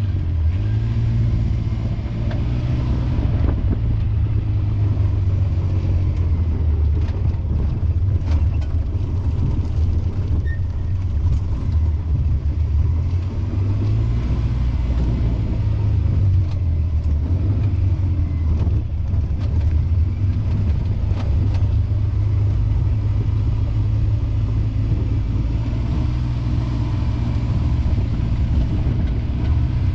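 A motor vehicle driving, with a continuous low engine-and-road rumble. The engine note drifts gently up and down as it travels.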